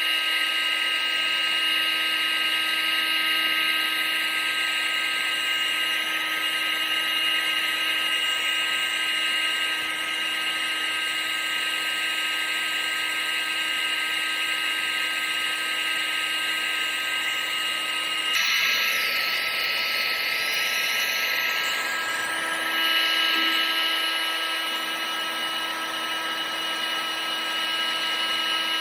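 Vacuum cleaner motor running continuously: a steady high whine over rushing air. About eighteen seconds in, the pitch of the whine shifts briefly and the lower hum drops out, then settles back a few seconds later.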